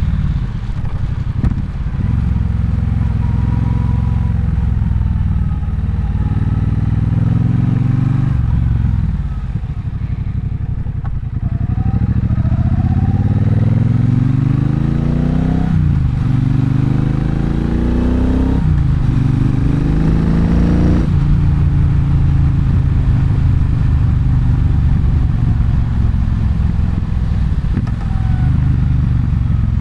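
Triumph Bonneville Bobber's 1200 cc parallel-twin engine under way. Near the middle it accelerates hard through three gears, each rise in pitch cut off by an upshift, then settles into a steady cruise.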